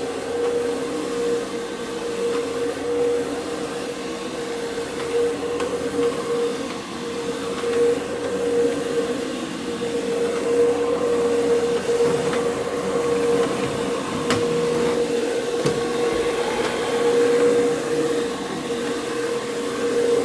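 Counter-rotating brush (CRB) carpet machine running, its brushes scrubbing soiled carpet: a steady motor hum with a few light clicks past the middle.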